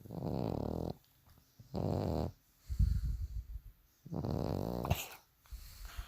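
A bulldog snoring loudly: three drawn-out snores, the first and last about a second long and the middle one shorter, with shorter, lower snorts between them.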